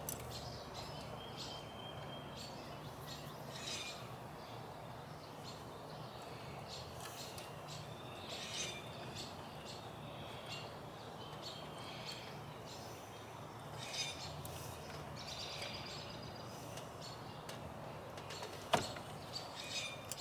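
Quiet background with faint, scattered bird chirps over a steady low hum, and one sharp click near the end.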